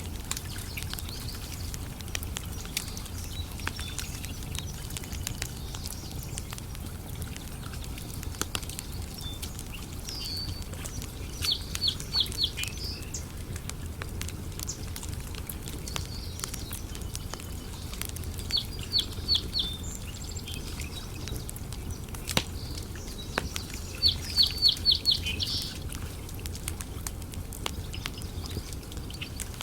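Wood campfire crackling, with sharp pops scattered throughout over a steady low rumble. A bird calls three times, each a quick run of four to six high notes; these calls are the loudest sounds.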